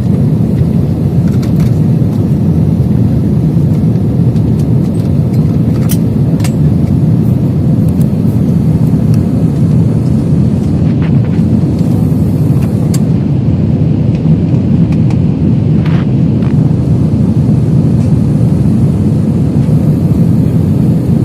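Jet airliner's engines and airflow heard from inside the cabin during the climb after take-off: a loud, steady low rumble, with a few faint clicks.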